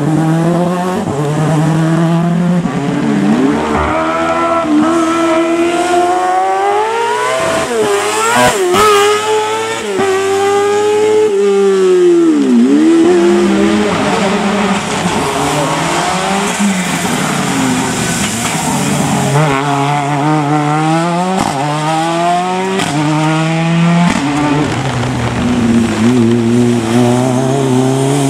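Race car engine driven hard, its revs climbing and dropping again and again through gear changes and braking, with a deep drop and climb back about twelve seconds in. A few sharp cracks come around eight seconds in.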